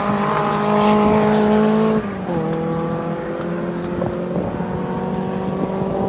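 Rally car engine pulling hard under acceleration, its pitch climbing steadily; about two seconds in it drops suddenly at an upshift, then climbs again.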